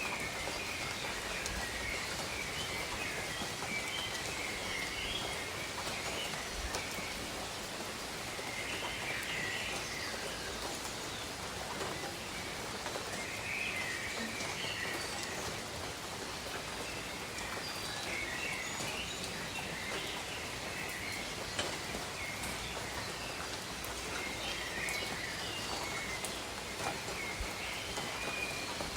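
Steady rain falling, with bird calls coming in short bursts every few seconds.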